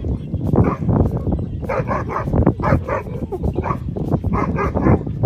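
German Shepherd puppy barking and yipping in a quick run of short, high calls, several a second, over a low rumble.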